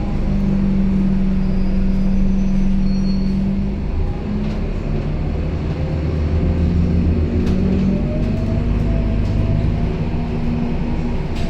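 Scania K270UB city bus engine running, heard from inside the passenger cabin: a steady drone whose pitch drops about four seconds in, with a faint rising whine appearing after about eight seconds.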